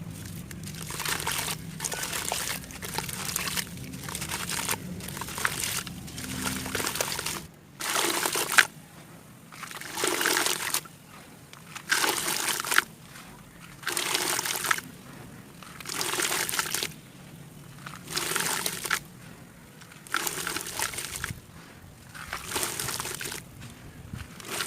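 ASMR crunchy and watery sounds, crisp crackling and liquid noises close to the microphone. They come thickly for the first several seconds, then in short separate bursts about every two seconds.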